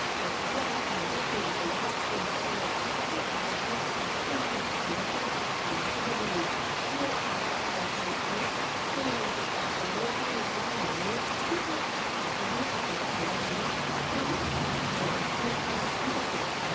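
Steady rushing noise of a storm's wind and rain, with faint wavering tones underneath.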